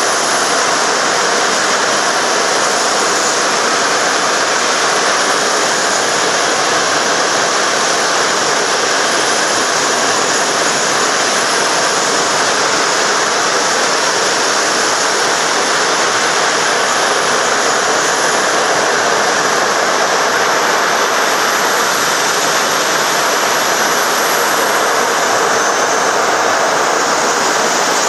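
Jet aircraft turbine running steadily: a loud, even rushing noise with a thin high whine on top that rises slightly near the end.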